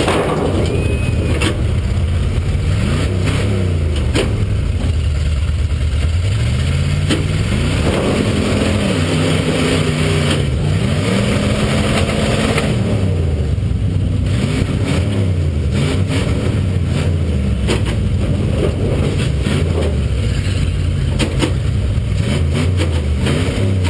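Demolition derby trucks' engines revving hard, several at once, their pitch climbing and falling every few seconds, with scattered sharp knocks of impacts.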